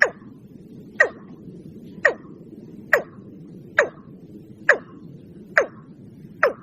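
Watercock calling: a steady series of short calls, each dropping quickly in pitch, about one a second and slowly speeding up, eight in all. A low steady hiss lies under them.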